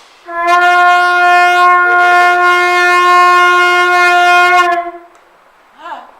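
A shofar blown in one long, steady blast that starts just after the beginning and stops about five seconds in.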